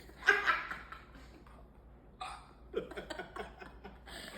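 A person making short, sharp vocal noises with the mouth and throat. One comes near the start and another about two seconds in, followed by a quick run of small clicks and pops.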